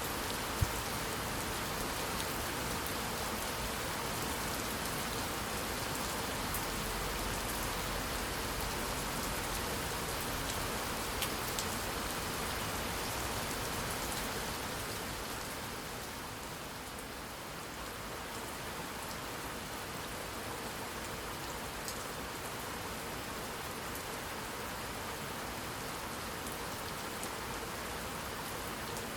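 Steady rainfall with scattered sharp drop ticks, one standing out just after the start; the rain eases slightly about halfway through.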